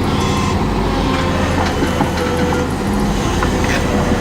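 Heavy machinery running: a steady low engine rumble with scattered clanks and rattles.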